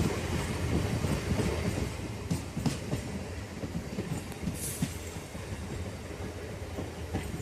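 Passenger train running along the track: a steady low rumble with many small knocks and rattles from the wheels and carriage.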